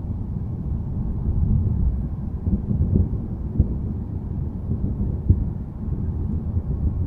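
Low, continuous rumble of distant thunder, deep and slowly swelling. Two brief sharper knocks stand out, about three and a half and about five seconds in.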